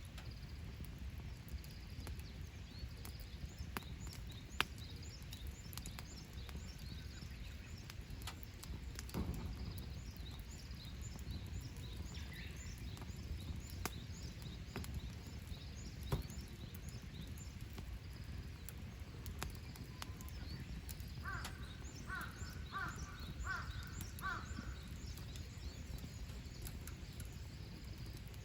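Wood campfire crackling with occasional sharp pops, over a steady low rumble, while small birds chirp. A bird calls about six times in quick succession about three quarters of the way through.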